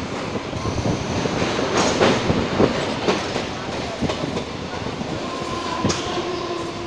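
Mumbai Harbour Line electric local train running, heard from the open doorway of a coach: a steady rush of rumble and wind with irregular sharp clacks of the wheels over rail joints. A faint steady whine comes in about five seconds in.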